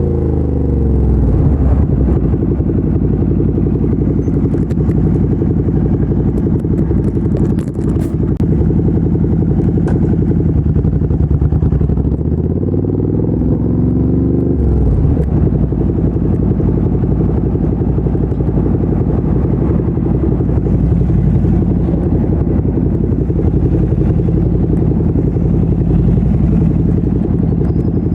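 Ducati Monster 797's air-cooled 803 cc L-twin running through a LeoVince LV-10 exhaust under way: the engine note falls over the first second or two, holds fairly steady, climbs as it revs up, then drops sharply about halfway through and runs on steadily.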